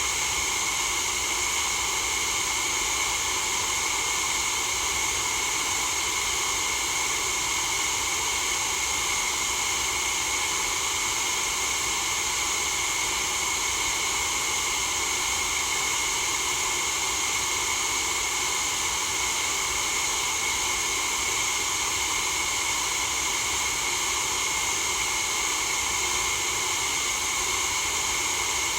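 Steady white-noise hiss at an unchanging level, brightest in the high treble, with no breaks or changes.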